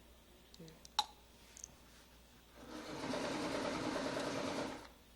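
A small electric motor whirs steadily for about two seconds, then stops; a sharp click comes about a second in, before it starts.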